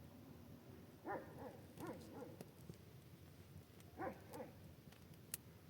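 An animal's short calls, each rising then falling in pitch, coming in pairs about a second in, two seconds in and four seconds in.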